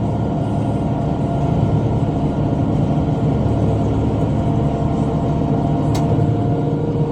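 Tractor engine running steadily while pulling a bush hog rotary cutter through brush, with one brief sharp tick about six seconds in.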